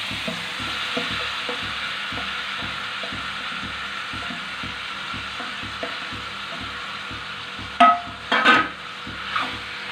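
Marinated chicken pieces sizzling as they hit hot sunflower oil in a frying pan, a steady frying hiss. Near the end, two loud metallic clanks with a brief ring.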